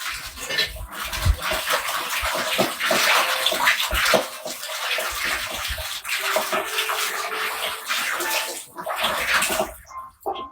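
Water sloshing and splashing by hand in a container, with many small irregular clicks and rattles; it stops briefly near the end.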